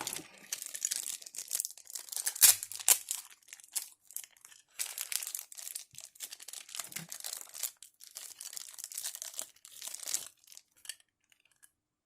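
Crinkling plastic packaging being handled and unwrapped, with many small crackles and clicks from the plastic figure parts; it stops about a second before the end.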